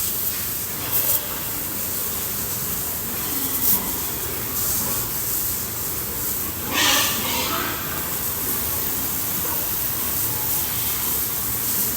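Water spraying in a steady hiss from a hose, washing pigs and their pen, with a louder burst of spray about seven seconds in.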